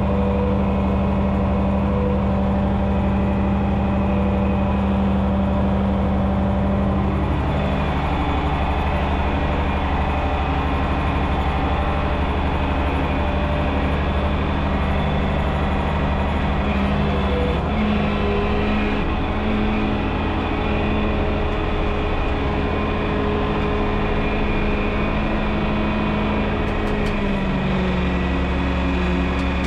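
John Deere 6030 tractor's six-cylinder diesel engine running steadily. Its speed drops a little about seven seconds in, picks up again just past the middle, and drops again near the end.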